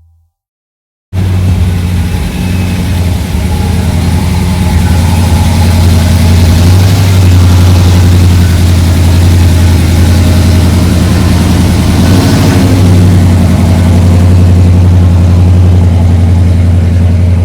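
A car engine running loud and close, mostly steady with a slight rise near the middle, starting about a second in after a brief silence.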